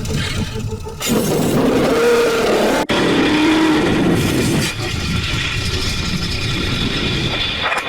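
Race car engines revving and running together in a heavily processed film soundtrack, with sliding engine pitches, an abrupt jump in sound about a second in and a brief dropout just before three seconds.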